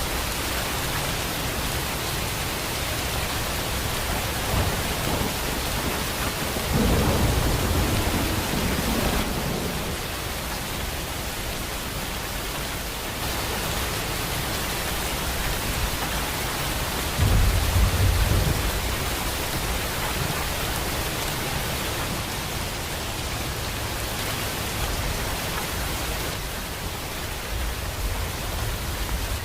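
Steady downpour of rain, with two low rumbles of thunder: one about seven seconds in and another about ten seconds later.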